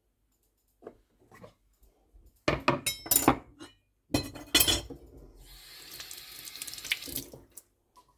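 Kitchen sink: a run of loud clattering knocks from dishware handled in the sink, then a tap runs for about two seconds and is turned off.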